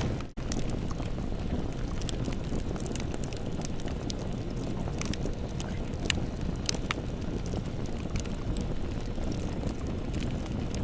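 Campfire burning: a steady low rumble of the flames with scattered sharp crackles and pops of burning wood. The sound cuts out for a split second just after the start.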